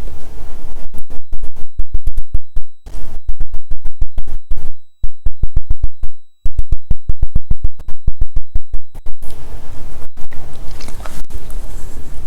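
Rapid electrical buzzing crackle from a badly connected microphone: a steady run of sharp pulses, about seven a second, with a thin high whine. It cuts out briefly twice and stops about nine seconds in.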